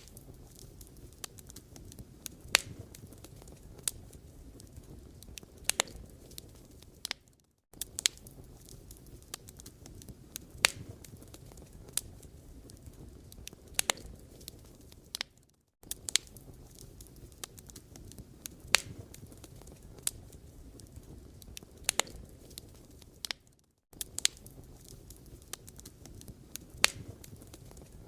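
Wood fire crackling: a steady low hiss with frequent sharp pops and snaps from burning logs, cut by a brief dropout about every eight seconds.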